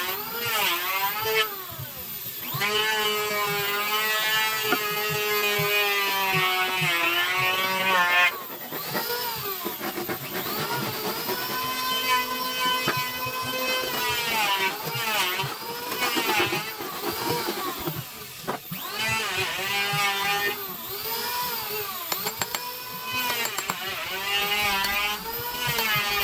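Handheld electric power tool cutting wood, its motor whine sagging in pitch under load and picking back up again and again, with a few short breaks.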